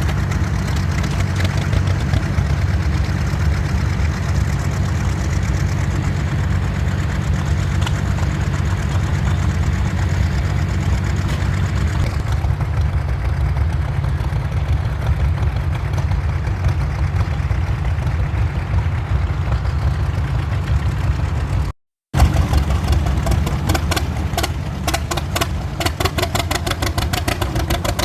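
Vintage tractor engine running steadily with a rapid, even firing beat. About 22 s in the sound cuts out for a moment and comes back with the firing pulses more distinct.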